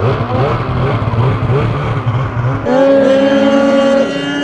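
Mountain snowmobile's two-stroke engine, first revving up and down unevenly. About two-thirds of the way in it jumps to a steady high-rpm pull at full throttle, holding one pitch.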